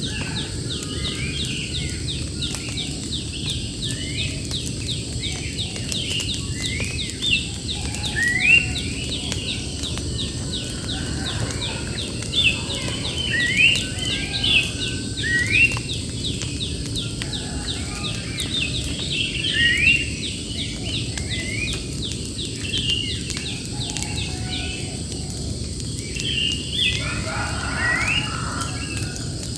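Wild birds chirping, with many short rising calls repeated irregularly throughout, over a steady rapid high-pitched ticking and a constant low background noise.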